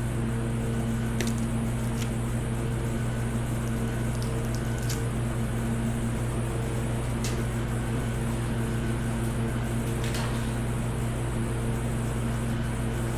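Steady low machine hum with a constant pitch, with a few faint light clicks scattered through it.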